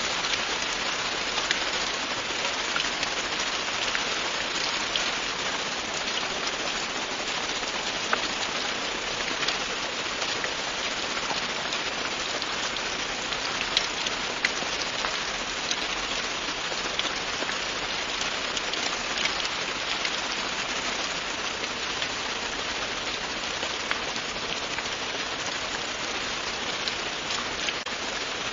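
Steady, continuous rain with a dense hiss, and individual drops ticking now and then.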